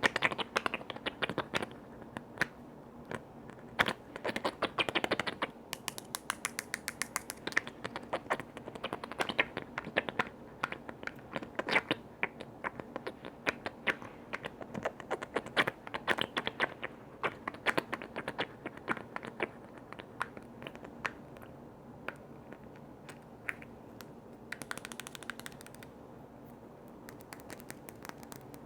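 Rapid tapping and clicking on container lids, in quick irregular runs with short pauses between them.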